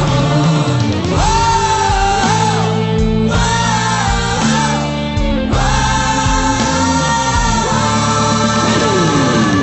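A pop-rock tribute song between sung lines: held, gliding melody notes over band accompaniment with guitar and bass.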